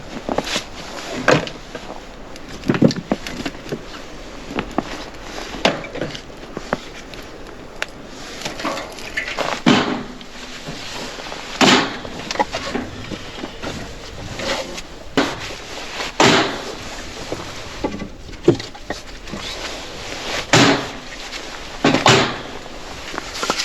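A series of heavy knocks on wood, struck irregularly about every one to two seconds, each a sharp hit with a short ring after it.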